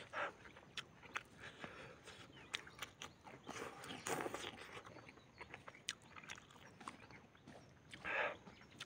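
Close-up eating sounds: open-mouthed chewing and lip smacking of rice and chicken eaten by hand, made of many short wet clicks, with three louder wet bursts at the start, midway and near the end.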